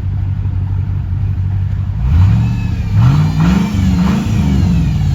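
Chevy truck's 4.8 L V8 running steadily, then speeding up about two seconds in, its pitch rising and falling a few times through the second half. The engine runs on fresh coil packs and plugs fitted to cure random misfires, and sounds pretty good.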